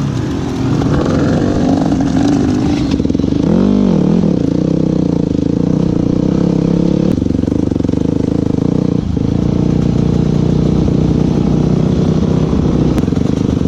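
Motorcycle engine running steadily at low revs, with one short rev that rises and falls about four seconds in.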